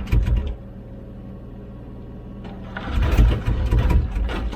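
Komatsu PC16 mini excavator's diesel engine running steadily while the bucket digs, with two loud bursts of clunking and scraping: a short one at the start and a longer one from about three seconds in lasting over a second.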